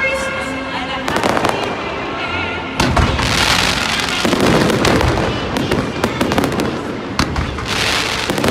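Fireworks display: a rapid run of bangs and pops with dense crackling, the thickest crackle about three seconds in and again near the end, over background music.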